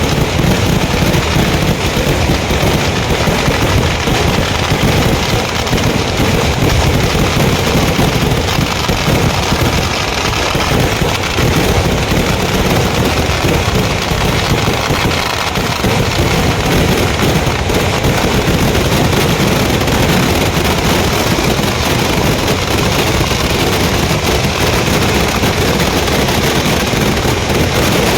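Dense, unbroken barrage of fireworks and firecrackers, the bangs following so closely that they run together into a steady, rapid crackle.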